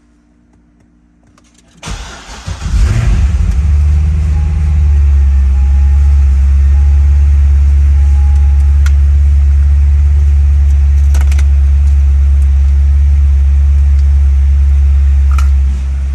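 2009 Corvette Z06's 7.0-litre LS7 V8 started from dead cold: about two seconds in the starter cranks briefly, the engine catches with a quick rev flare, then settles into a steady, loud idle that eases down slightly near the end.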